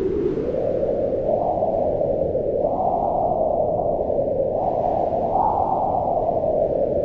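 Howling mountain wind: a steady low rush whose pitch swells up and sinks back several times as the gusts rise and ease.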